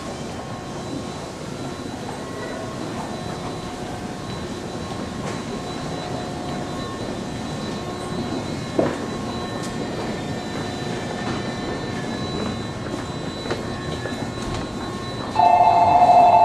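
Stationary 211 series electric train standing at a platform, the steady hum of its onboard equipment running, with a single knock about halfway through. Near the end a loud steady two-note tone sounds for under two seconds.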